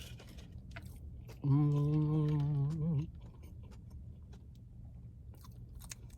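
A person chewing fried fish with soft wet mouth clicks, and about a second and a half in a long, steady hummed "mmm" of enjoyment lasting about a second and a half.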